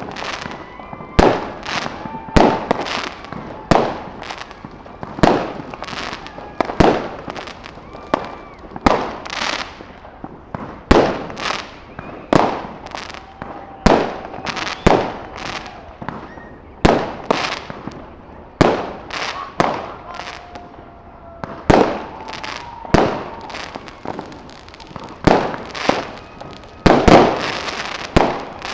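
Fireworks display: aerial shells bursting in a steady run of sharp bangs, roughly one to two a second, each trailing off in a short echo.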